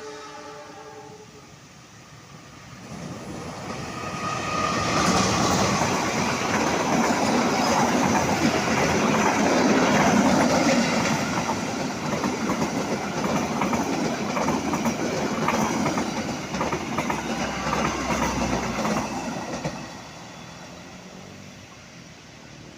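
A train's horn sounds briefly, then a train passes: the sound builds over a few seconds, wheels clatter over the rail joints for about fifteen seconds, and it drops away near the end.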